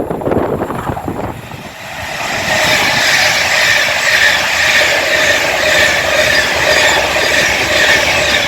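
Class 390 Pendolino electric train passing through at speed. A loud rush of wheel and air noise swells about two seconds in and holds steady, with a high whine running through it.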